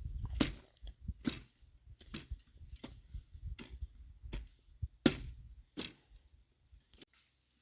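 A series of sharp knocks and clicks at an uneven pace, roughly one or two a second, over a faint low rumble, stopping about seven seconds in.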